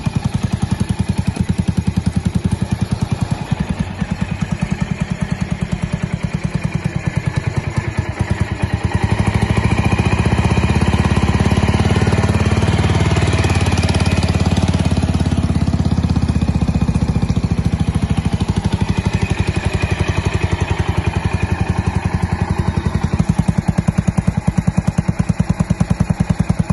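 Suzuki Skywave (CJ44A) big scooter's single-cylinder four-stroke engine running through an aftermarket muffler, with a steady exhaust beat at idle. About nine seconds in it is revved and runs louder for several seconds, then settles back toward idle.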